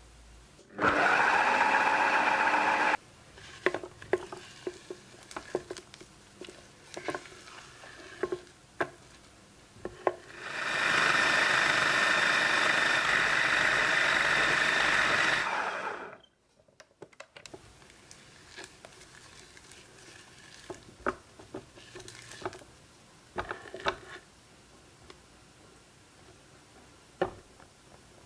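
Magimix food processor mixing spritz biscuit dough: the motor runs about two seconds, rising in pitch as it spins up, then again for about five seconds. Light clicks and knocks from the bowl and utensils fall in between.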